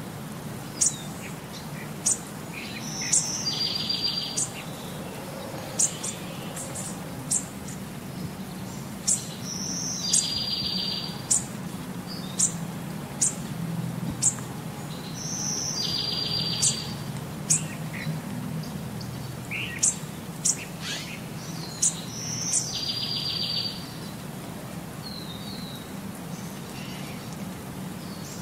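Birdsong: sharp high chirps and a short buzzy trill, the same sequence coming back about every six seconds like a loop, over a steady low hum.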